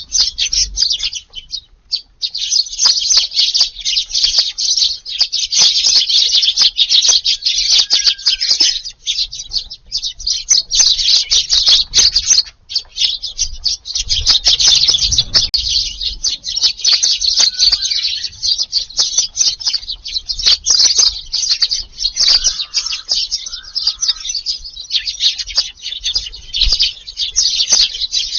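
A large flock of Eurasian tree sparrows chirping busily and without pause, many birds calling over one another.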